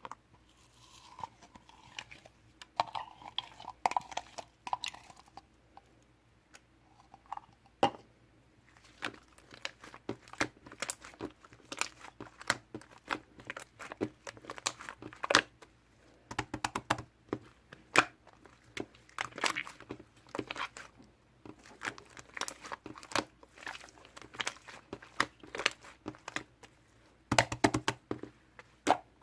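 Slime being worked by hand, giving many short irregular clicks and pops. These are sparse at first and come thick and fast from about eight seconds in.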